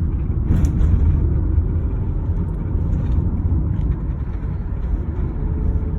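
A vehicle driving: steady low rumble of engine and road noise, with a brief click about half a second in.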